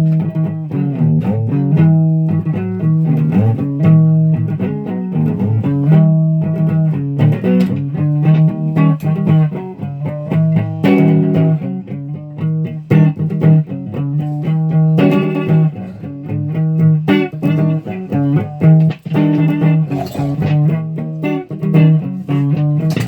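Electric guitar played through an amplifier: a steady run of quickly plucked single notes, with no speech.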